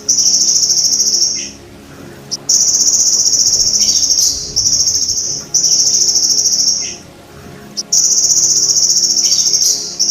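Belalang emas (golden grasshopper) stridulating: high-pitched, rapidly pulsed buzzing trills of one to two seconds each, repeated with short pauses between them.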